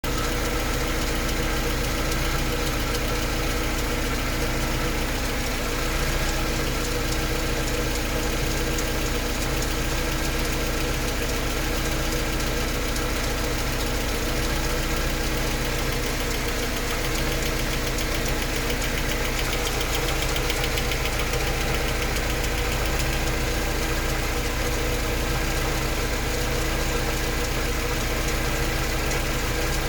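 Mercedes-Benz 190E engine idling steadily, with a rhythmic ticking noise running through it.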